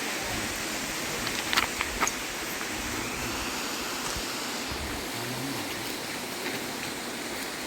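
Steady rushing water of a waterfall, with two short sharp clicks about a second and a half in.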